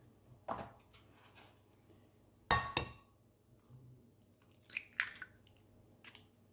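Eggs being cracked against a bowl: a few sharp taps and clinks, the loudest about two and a half seconds in with a brief ring from the bowl.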